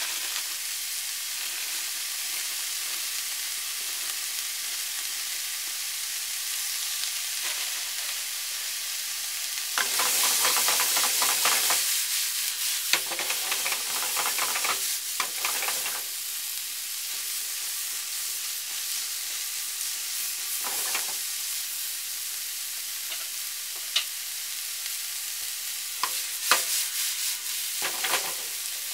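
Sliced pork, cabbage, onion and carrot sizzling steadily in a nonstick frying pan, with louder rustling bursts as the food is stir-fried with chopsticks, about ten seconds in, again a few seconds later, and near the end. A few sharp taps come near the end.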